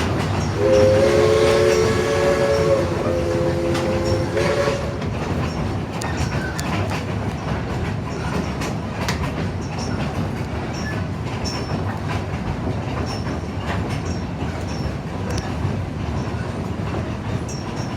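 Steam locomotive No. 16's chime whistle sounds a chord of several tones for about four seconds, with a slight break midway. After it stops, the train rolls on with a steady rumble and clickety-clack of wheels over rail joints.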